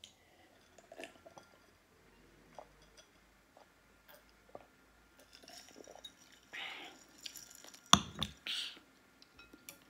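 Close-miked chewing with small mouth clicks, then a sharp knock about eight seconds in, with short noisy bursts just before and after it.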